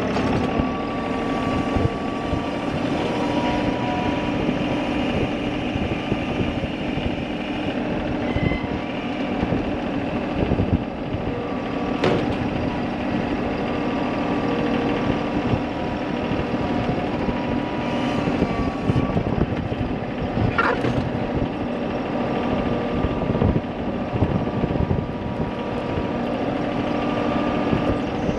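A vehicle engine running steadily, with a sharp click about twelve seconds in.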